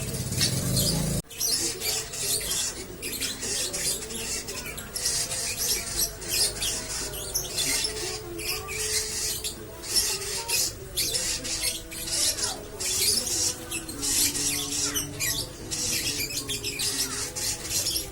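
Lovebird's long 'ngekek' chattering song: a rapid, high-pitched, squeaky chatter that runs on almost without stopping, broken only by brief gaps.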